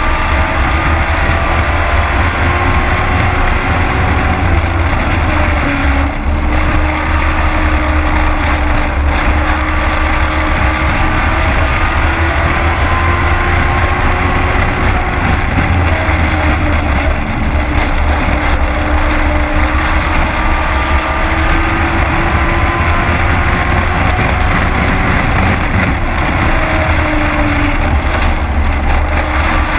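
Race truck engine at racing speed, heard from inside the cab: a loud, steady run with a heavy low rumble, its pitch rising on the throttle and dipping briefly several times as the driver lifts and gets back on the gas.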